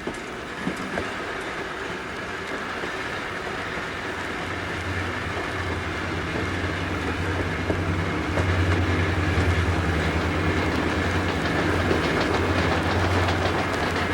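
Santa Fe 4-8-4 Northern steam locomotive 3759 getting under way with its train, a steady running noise with a fast clickety-clack rhythm that grows louder about halfway through.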